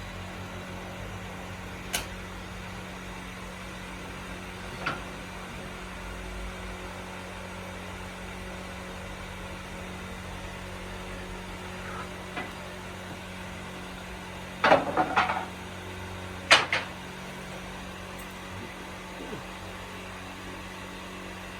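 A steady mechanical hum with a few scattered knocks and clatters. The loudest are a quick run of knocks about fifteen seconds in and a single sharp knock a moment later.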